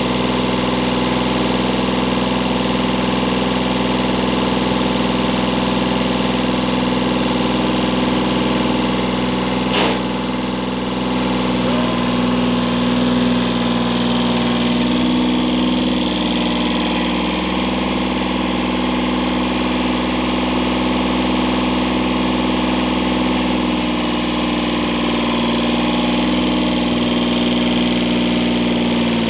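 Kubota tractor's diesel engine running steadily at a low speed, with a single sharp click about ten seconds in and a slight change in pitch about halfway through.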